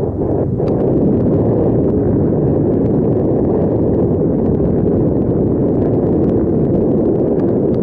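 Steady low rumble of wind buffeting the microphone while riding a bicycle, with faint scattered ticks above it.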